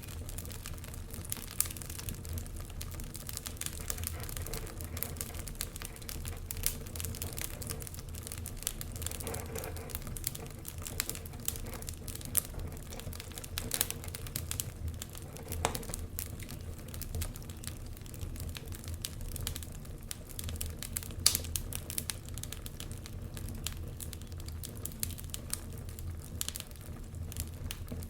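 Wood fire crackling in a fireplace: a steady low rumble of flames under frequent sharp pops and snaps, with one louder snap about three quarters of the way through.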